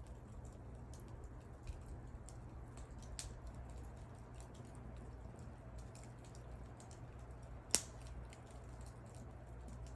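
Wood fire crackling: a scatter of small sharp pops and ticks, with one louder pop near the end, over a steady low rumble.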